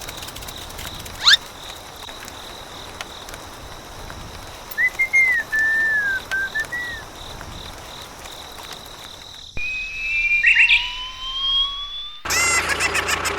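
Whistle sound effects over a steady hiss: a quick rising whistle about a second in, a short bird-like chirping phrase in the middle, and slow rising sliding whistles near the end before a busier, louder passage.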